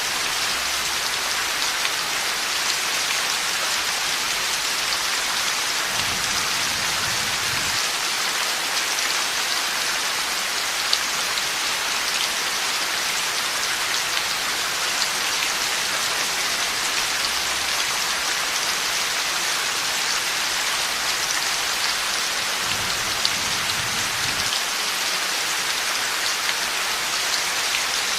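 Heavy rain falling steadily, a dense even hiss of drops on surfaces with scattered single drops ticking through it. Two faint low rumbles come and go, about six seconds in and again near the end.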